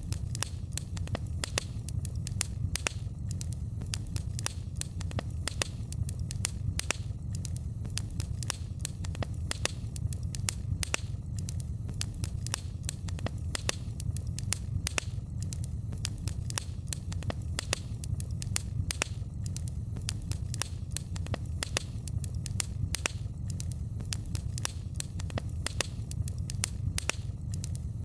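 Wood fire crackling in a fireplace: irregular sharp crackles, several a second, over a steady low rumble.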